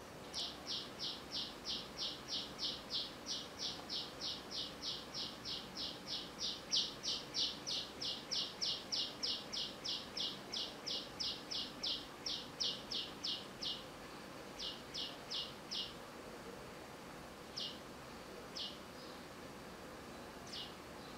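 A bird calling: a long run of short, high chirps, evenly spaced at about three a second, that stops about 14 seconds in and is followed by a few scattered single notes.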